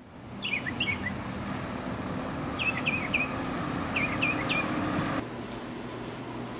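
Outdoor ambience: a bird chirping in three short bursts of quick falling notes, over a steady high insect drone and a low steady hum. About five seconds in, it cuts to quieter indoor room tone.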